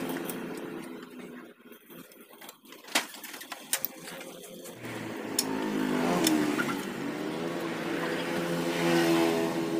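A small electric power tool motor runs, fading at first, then speeding up and slowing, then running steadily, with a few sharp metal clicks from tools near the middle.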